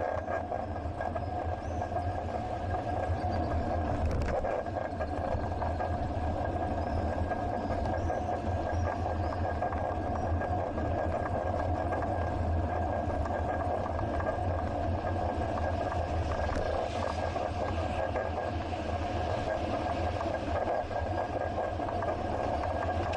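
Steady rumble of wind and road noise picked up by an action camera on a moving bicycle, with a constant thin whine running through it.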